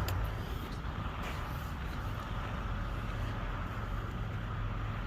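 Semi truck's drive tires spinning on ice under engine power as the truck tries to get unstuck, a steady noise over a low engine hum; the truck is stuck and not gaining traction.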